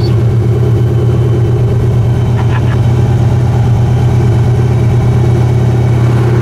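Car engine running at a steady speed while driving, a constant low drone with no change in pitch.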